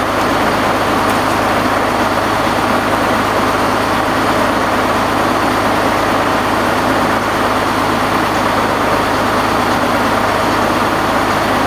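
Wright R-2600 Twin Cyclone radial engine of a B-25 Mitchell bomber running steadily at low power, newly fitted. The engine is loud, with an even beat and no change in speed.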